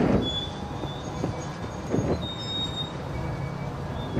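Freight train on the rails: a steady low rumble with heavy clunks near the start, about two seconds in and at the end, and faint high-pitched squealing tones.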